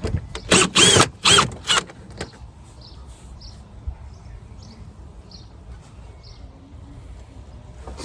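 Cordless drill-driver running in about four short bursts, each rising and falling in pitch, in the first two seconds, backing out the screws of a wheel arch liner; after that only faint small ticks over a low background rumble.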